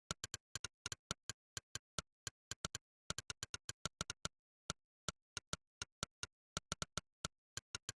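Monkeytype's 'click' keypress sound effect: one short, sharp synthetic click for each keystroke, coming in quick uneven runs of several clicks a second with short pauses, in the rhythm of fast typing.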